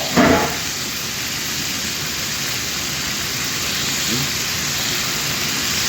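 Chicken pieces frying in shallow hot oil, sizzling steadily.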